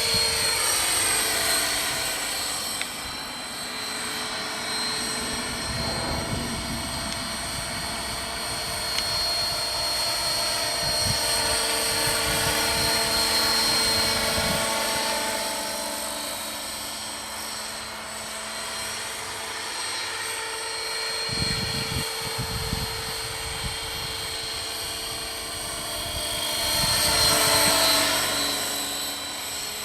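Electric T-Rex 600 RC helicopter in flight: the electric motor's steady high whine over the whir of the rotor blades, swelling and fading as it flies past, loudest near the end.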